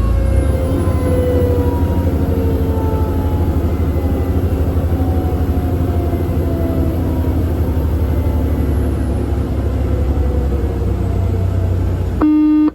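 Fire engine running under way with a loud, steady low engine drone, while its mechanical siren slowly winds down in pitch. A short horn blast sounds near the end.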